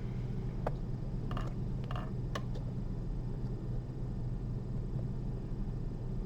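Light clicks and rustles of surgical instruments, a needle holder and forceps, handling suture on a 3D-printed aorta model. The sharpest clicks come about a second in and again near two and a half seconds. A steady low electrical hum runs underneath.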